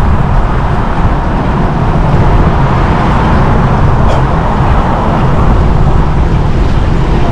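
Steady city street traffic noise heard from a moving bicycle, dominated by a heavy low rumble.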